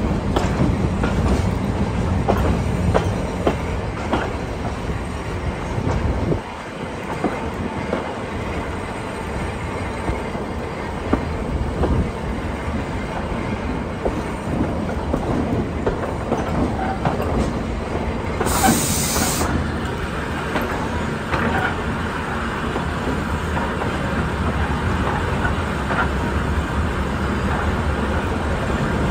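Heritage train's timber carriage rolling slowly over the track into a station, a steady rumble of wheels on rails with scattered clicks and knocks. About two-thirds of the way through comes a short hiss.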